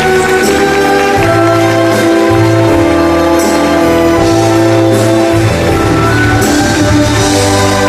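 Loud live curtain-call music from a musical's orchestra: long held chords over a bass line that moves about once a second, with a few cymbal-like splashes.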